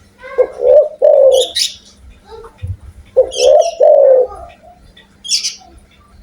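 Spotted dove cooing: two phrases of its repeated call, each a short note followed by longer falling coos, about three seconds apart. Short high-pitched chirps sound between the phrases.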